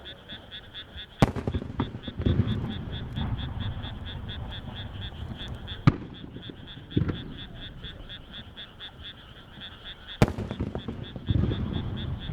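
Warimono aerial firework shells going off one at a time: three sharp bangs, each followed about a second later by a low rolling boom. Under them, frogs in the surrounding rice fields keep up a steady fast-pulsed calling.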